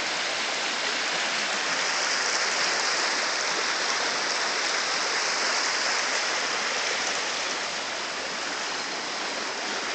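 American Fork River rushing steadily, running high and fast, swollen by rain and snowmelt.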